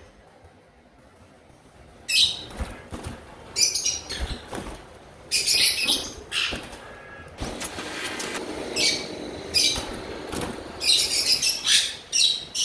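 Male olive-mutation Indian ring-necked parakeet calling: a series of short, high-pitched screeching calls in bursts, starting about two seconds in, with one call near the end sliding down in pitch.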